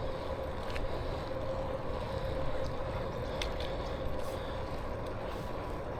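Riding an electric bike: a steady whine, typical of the e-bike's motor, under low wind rumble on the microphone, with a few light clicks.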